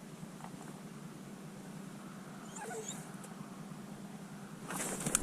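A dog whining faintly in short, wavering whimpers about halfway through, then a brief rustling burst near the end.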